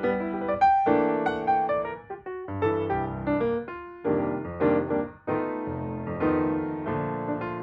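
Background piano music: a gentle melody of separate notes and chords, each struck and fading.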